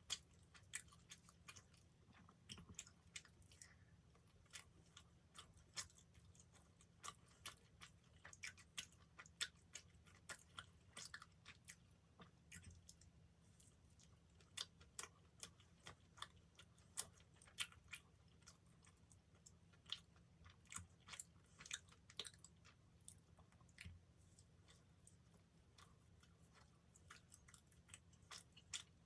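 Close-miked chewing of a dessert pastry: a quiet, irregular run of sharp mouth clicks and soft crunches, several a second.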